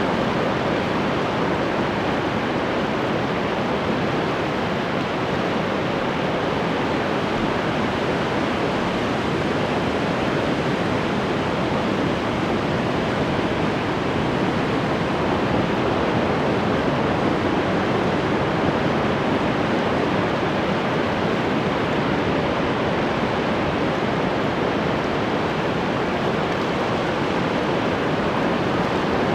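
Ocean surf washing on the shore, a steady, dense rush with no distinct single wave crashes standing out.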